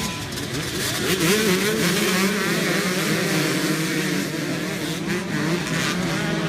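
Several dirt bike engines running and revving together, their pitches wavering up and down over a steady engine drone.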